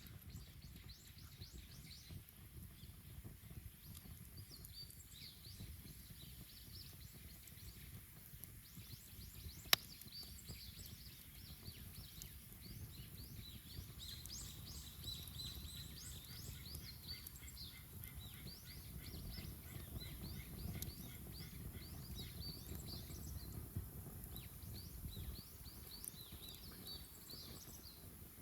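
Wood bonfire burning with a low, crackling rumble and one sharp pop about ten seconds in. Many small birds chirp throughout, busiest in the second half.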